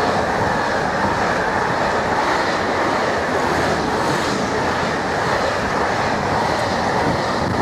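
A train passing at close range: a loud, steady noise of wheels and running gear on the rails that holds without a break.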